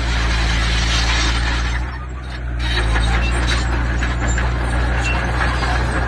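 A heavy construction machine's diesel engine running steadily, with metallic clanking and rattling. The sound drops briefly about two seconds in.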